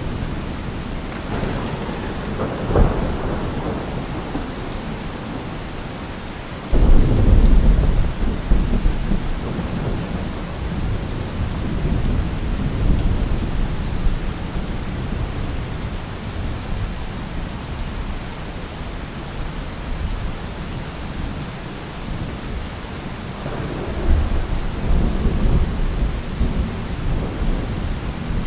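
Steady heavy rain with rolling thunder: a rumble a couple of seconds in, a sudden loud thunderclap about seven seconds in that rolls on for several seconds, and another rumble near the end.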